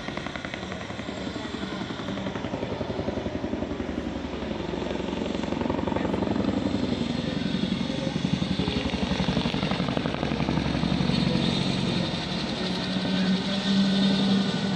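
Boeing CH-47 Chinook tandem-rotor helicopter: a rapid, even beat of the rotor blades over the whine of its turbines, growing louder as it comes closer.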